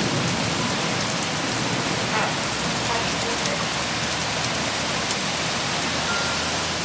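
Summer rain falling steadily, an even hiss with scattered drop impacts.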